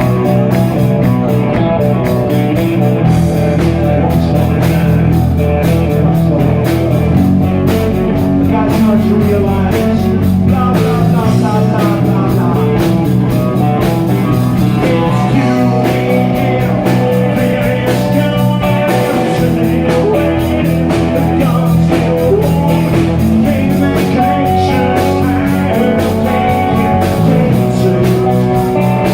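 Live rock band playing: electric guitar, bass and a drum kit in a steady groove.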